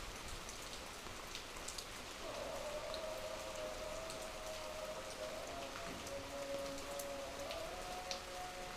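Steady rain falling, with scattered single drops ticking on a hard surface. A steady droning tone runs underneath from about two seconds in.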